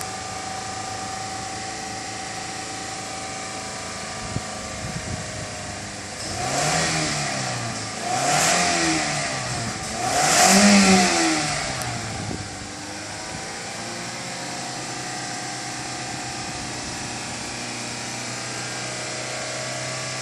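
Toyota Corolla Altis engine idling, blipped three times about six to twelve seconds in. Each rev rises and falls back, and the third is the loudest, before the engine settles back to a steady idle.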